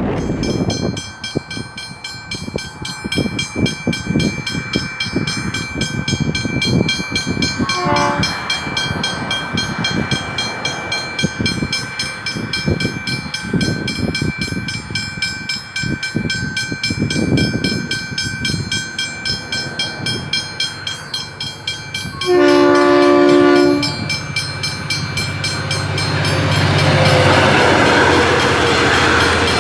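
Westinghouse Hybrid level-crossing bell ringing rapidly and steadily as a train approaches. The train sounds its horn with a short toot about 8 seconds in and a loud blast of about a second and a half near 22 seconds in. Its rumble and wheel noise then grow loud near the end.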